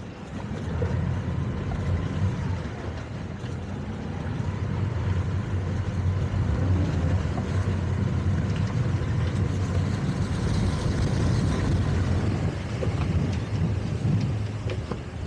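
Towboat engine running steadily, a low drone that swells over the first second and then holds.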